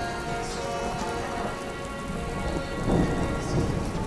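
Heavy rain pouring steadily, with a low rumble of thunder swelling about three seconds in.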